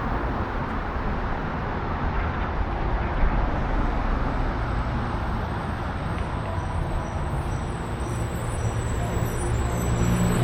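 Steady city traffic noise, with a low engine hum growing louder near the end as a vehicle approaches.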